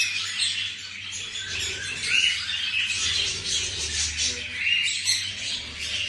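Pet parrot chirping and chattering: a quick run of short high calls, with longer curving calls about two and five seconds in.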